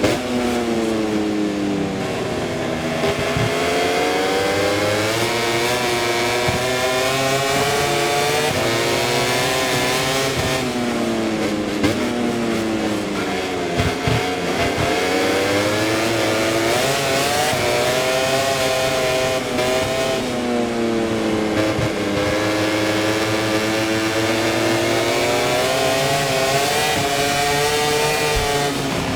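Aprilia RS-GP MotoGP bike's V4 engine heard from onboard at race pace, revs falling under braking into corners and climbing again on the throttle, several times over.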